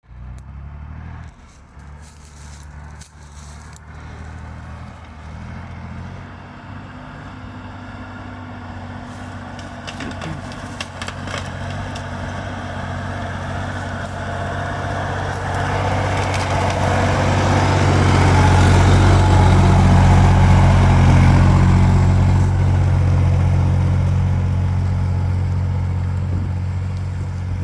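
Ural truck's engine running under load, its drone growing steadily louder to a peak about two-thirds of the way through, then easing slightly.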